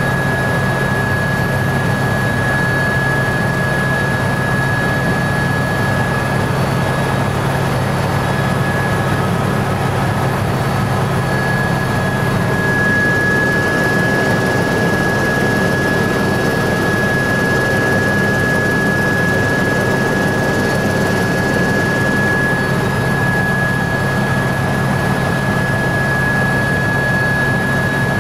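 Tour helicopter in flight, its turbine engine and rotors giving a steady drone with a constant high whine.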